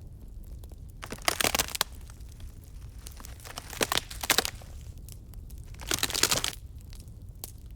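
Wood campfire crackling: scattered single pops over a low steady rumble, with three short bursts of dense crackling about one, four and six seconds in.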